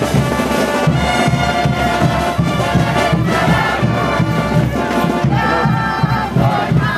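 Brass band playing diablada music: trumpets and trombones holding the melody over a steady drum beat.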